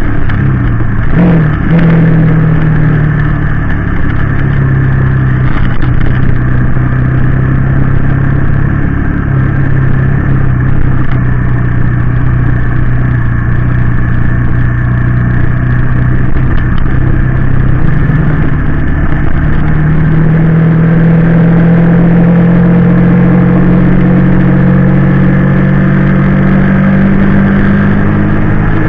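Honda VT250 V-twin motorcycle engine running as the bike is ridden. The note jumps and resettles about a second in, holds steady for a long stretch, then rises gradually through the last third as the bike speeds up.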